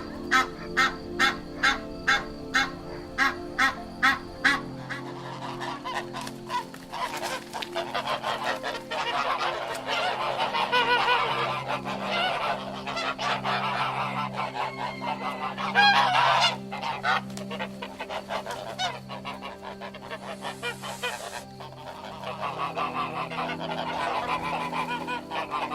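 Geese honking. For the first four seconds or so there is a regular run of single honks, about two a second; then many geese honk over one another in a dense, continuous din.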